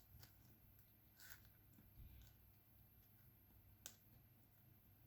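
Faint, sparse clicks of a diamond-painting drill pen tapping drills onto the canvas, with one sharper click about four seconds in.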